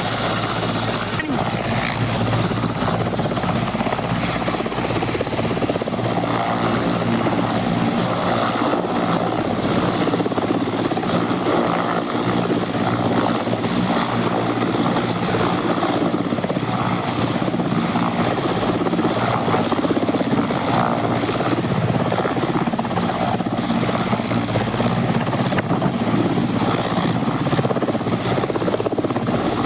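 Helicopter's rotor and engine running loudly and steadily at close range.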